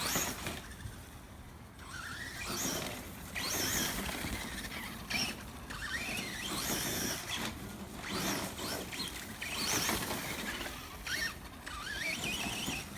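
Brushless electric motor of an ECX Ruckus 1/10-scale RC monster truck whining in several bursts, rising and falling in pitch as the throttle is worked.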